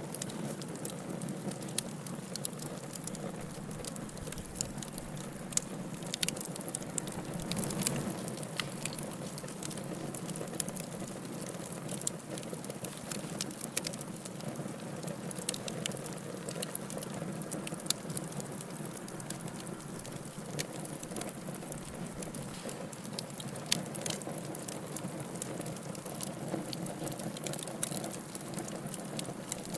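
Wood fire burning in a fireplace: a steady hiss with irregular sharp crackles and pops throughout.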